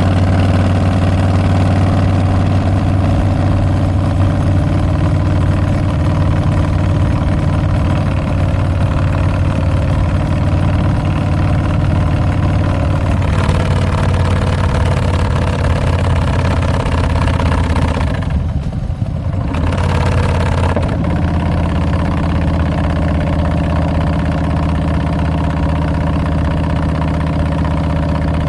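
2022 Harley-Davidson Street Bob's Milwaukee-Eight 114 V-twin running through Tabs Performance slip-on mufflers with Zombie Baffles, held at a steady pace. About two-thirds of the way through the throttle closes briefly, the sound dipping for a moment before the engine settles back into a steady, lower-pitched run.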